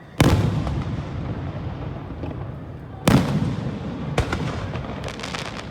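Aerial fireworks shells bursting: two heavy booms about three seconds apart, each followed by a long rolling echo, then a sharper bang about four seconds in and a quick run of crackling.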